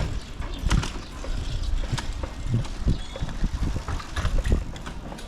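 A bicycle being ridden, rattling with irregular knocks and clicks over a steady low rumble.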